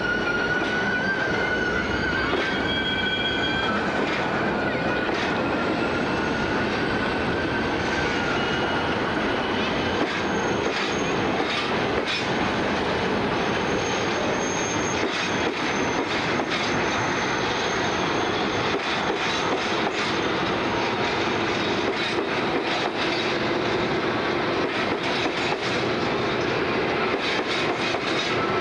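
Freight train of bogie hopper wagons rolling past steadily, its wheels squealing with thin high tones for the first ten seconds or so. After that, rapid clicks of wheels over rail joints come through the rumble.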